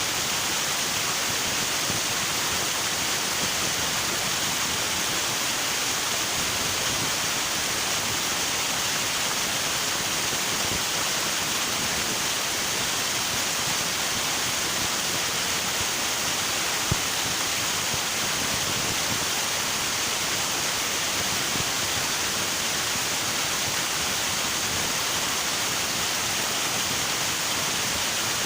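River water rushing steadily over rocks, a constant, even roar of flowing water.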